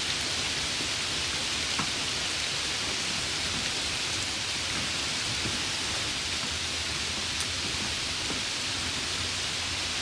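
Steady, even summer rain: a dense hiss of falling rain with an occasional single drop tick.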